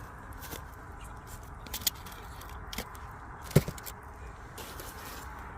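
Wood fire burning with a steady low rush and a few sharp crackling pops, the loudest about three and a half seconds in.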